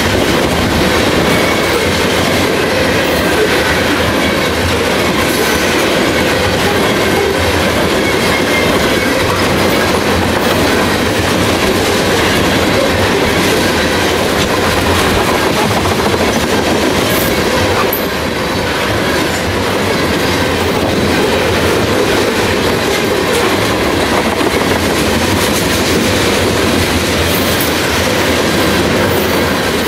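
Freight train of tank cars rolling past close by: a loud, steady rumble and clatter of steel wheels on the rails, with a faint high whine in the first few seconds.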